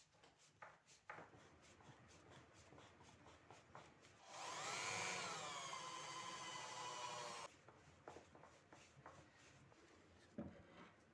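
Wooden logs being handled and shifted: a few light knocks, and in the middle about three seconds of rubbing with a wavering squeak, wood scraping on wood.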